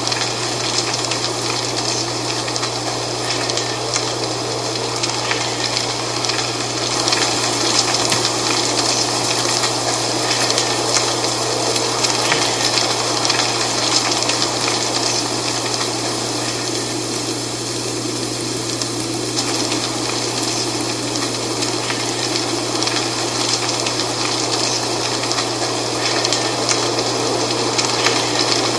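Dry fall leaves rustling and crackling in a steady wind, the wind swelling a little partway through and again near the end, over a constant low hum.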